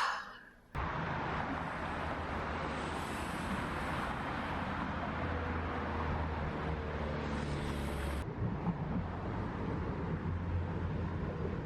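Steady traffic noise with a low rumble, starting just under a second in; its hiss changes about eight seconds in.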